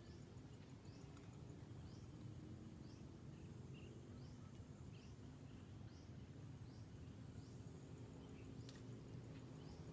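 Faint outdoor ambience: short, high chirps repeat roughly once a second over a low, steady rumble.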